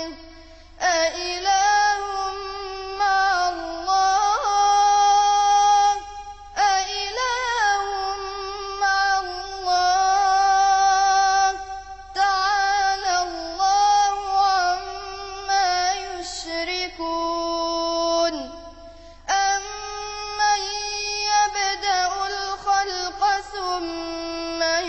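A young reciter's high voice chanting the Quran in a melodic tajweed style, holding long ornamented notes with short breath pauses.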